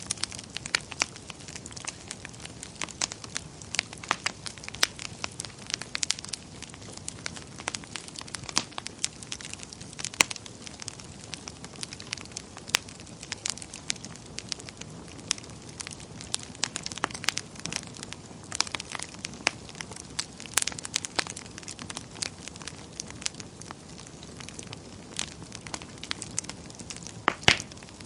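Wood fire crackling in a fireplace: a steady low hiss with irregular sharp pops and snaps, one louder pop near the end.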